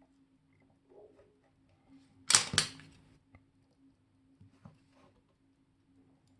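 Two sharp metallic clicks about a third of a second apart, a little before the middle, among faint small taps of tools and parts being handled at a watchmaker's bench, over a steady low hum.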